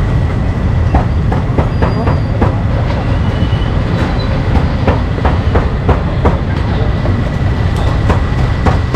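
Busy street-market noise: a steady low rumble with a quick, irregular run of sharp knocks, a few a second.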